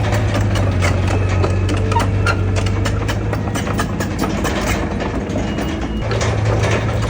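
Heavy diesel engine of earthmoving machinery running steadily, with many short clanks and clicks over it. The engine note grows stronger about six seconds in.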